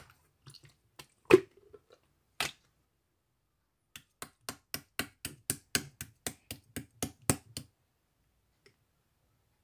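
Clear slime being pressed and squished by hand, giving sharp clicking pops from trapped air: two separate pops, then a run of about four pops a second for nearly four seconds before it stops.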